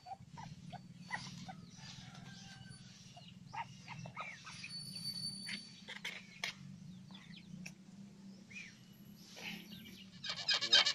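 Many short bird chirps and calls scattered throughout, some sweeping in pitch, over a steady low hum. Near the end a much louder bird call starts, repeating rapidly.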